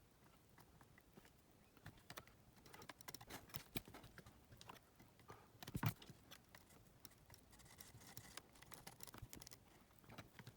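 Faint, irregular clicks and taps of small parts and tools being handled, with a louder knock about six seconds in.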